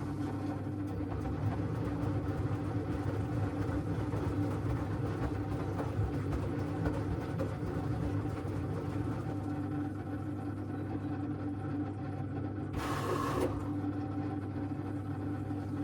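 LG washing machine running with a steady motor hum. A brief rushing noise comes in about three-quarters of the way through.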